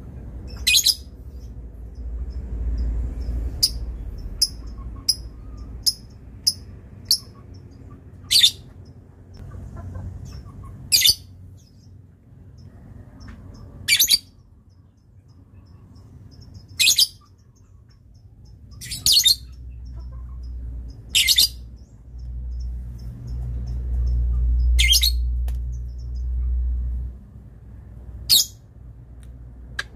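Lovebird giving short, sharp, high-pitched calls, about fourteen of them at irregular intervals a second or a few seconds apart, some clipped and some slightly longer. A low rumble swells underneath twice.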